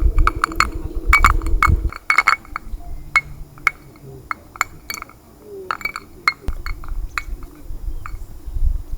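A series of light, sharp clinks, each with a slight ring, like hard objects tapped together. A low rumble sits under the first two seconds and returns about six and a half seconds in.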